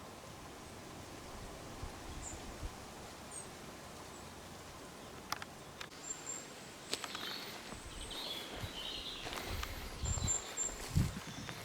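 Quiet outdoor ambience with scattered short, high bird chirps, mostly from about six seconds on. A few sharp clicks come in the middle, and some low thuds near the end.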